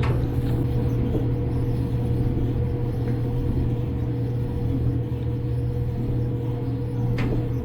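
Whirlpool gas clothes dryer running with a steady hum after a restart, its burner lit now that the gas valve coils have been replaced. There is a single sharp click near the end.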